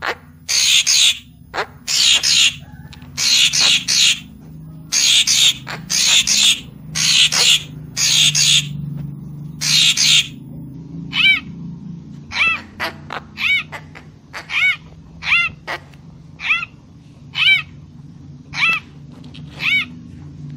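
A murai Papua repeating harsh, wavering calls about once a second, then switching about halfway through to shorter, clearer arched notes at the same pace.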